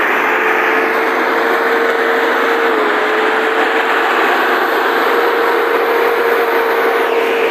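Tractor engine running at a steady speed, with a brief slight dip in pitch about three seconds in.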